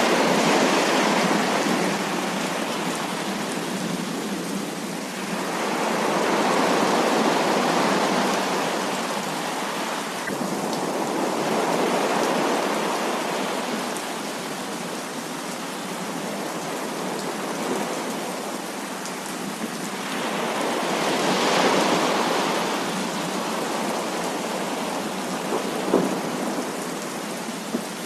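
Heavy rain pouring steadily in a thunderstorm, swelling louder several times as thunder rolls through, with one sharp tap near the end.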